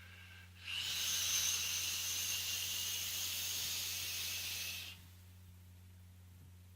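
E-cigarette dripping atomizer firing as it is drawn on: a steady hiss of e-liquid vaporising on the hot coil, lasting about four seconds and cutting off abruptly.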